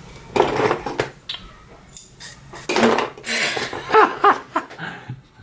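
Clicks and light clinks of small hard objects being handled: a freshly wound bobbin taken off the sewing machine's bobbin winder and shears picked up to cut the thread.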